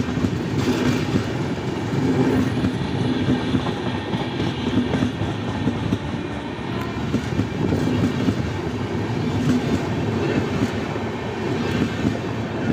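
Indian Railways passenger coaches rolling past at close range: a steady rumble of steel wheels on the rails, with repeated clicks as the wheels run over rail joints.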